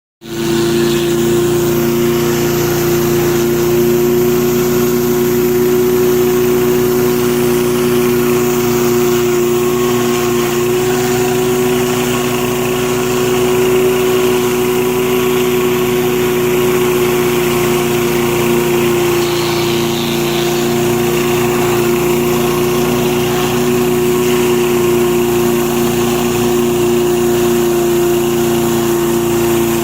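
Petrol-engine pressure washer running steadily at a constant pitch, with the hiss of high-pressure water spraying from a rotating surface cleaner onto concrete.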